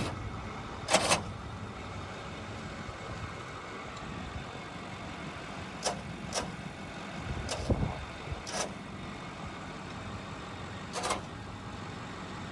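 Ford F450 truck engine idling steadily, with a handful of short sharp clicks and knocks scattered over it.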